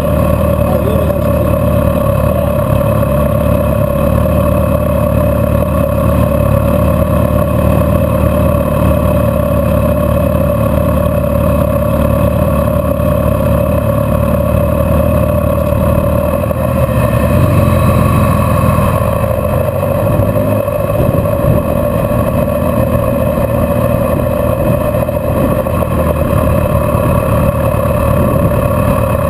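Car running in slow stop-and-go traffic: a loud, steady drone with a constant hum, swelling briefly in low rumble about two-thirds of the way in as the car creeps forward.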